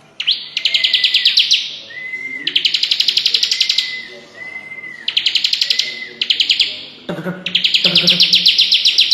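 Bar-winged prinia (ciblek) singing its rapid chattering 'cetrekan' song: a series of fast rattling trills, each a second or two long, with short whistled notes between them.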